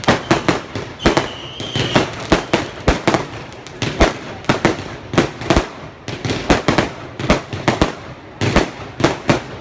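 Fireworks display going off: a rapid, irregular string of sharp bangs and crackles, several a second, with a short lull near the end before the bangs pick up again.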